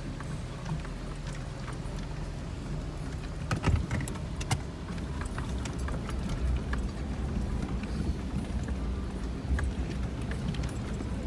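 A 4x4's engine running steadily at low revs while crawling off-road, with scattered knocks and rattles from the vehicle. The loudest is a cluster of sharp knocks about four seconds in.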